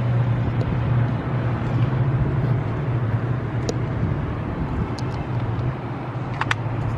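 Outboard motor of a pontoon boat running steadily with a low, even hum, with a few light clicks from fishing tackle.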